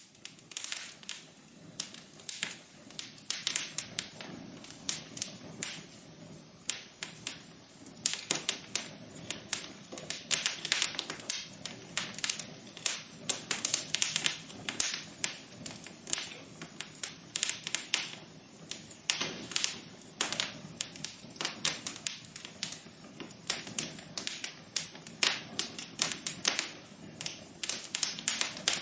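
Wood fire crackling in a fireplace: a dense run of irregular sharp pops and snaps over a steady soft hiss.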